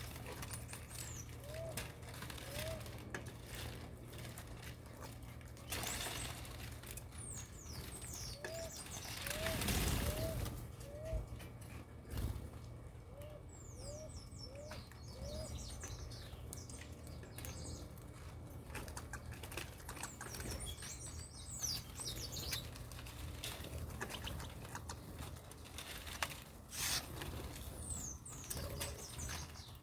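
Birds calling: quick high descending chirps come and go, alongside runs of short, low, arched notes in groups of three to five, over a steady low hum. A few brief rushes of noise break in, the loudest about ten seconds in.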